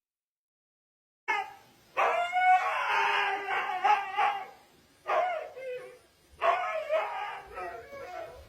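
A dog howling in a series of wavering, sliding calls, beginning about a second in.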